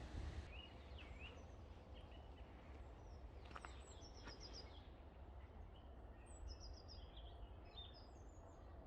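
Faint birdsong: small birds chirping and trilling on and off, over a low steady background rumble.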